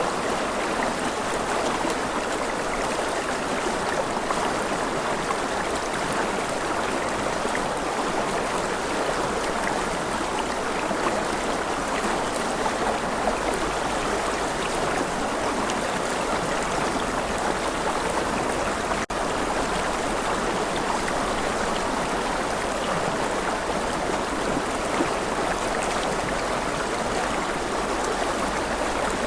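Steady rushing water of a stream, an even flowing hiss with no pauses, broken only by an instant's dropout about two-thirds of the way through.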